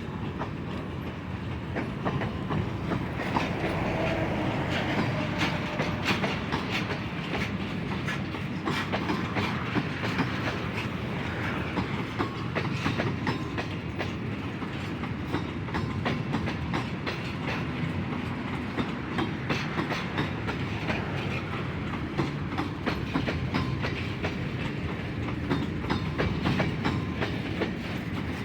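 Freight train cars rolling past at steady speed, a continuous rumble with wheels clicking over the rail joints.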